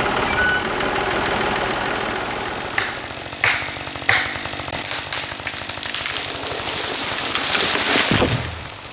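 Massey Ferguson 135 tractor engine running steadily, with three sharp knocks between about three and four seconds in and a rising hiss near the end.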